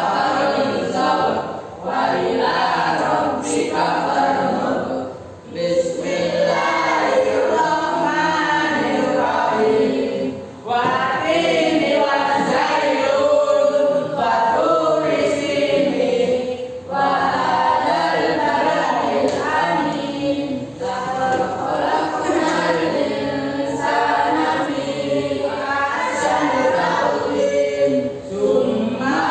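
A group of voices singing together in unison, in sung phrases broken by short pauses for breath.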